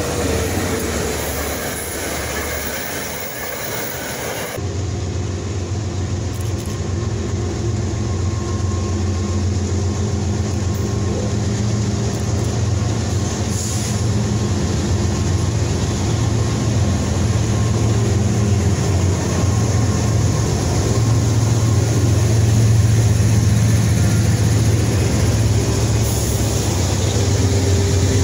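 For the first few seconds an NJ Transit diesel-hauled passenger train runs past on the near track. Then Norfolk Southern freight diesel locomotives approach and pass, their engines making a low, steady drone that grows louder as they near.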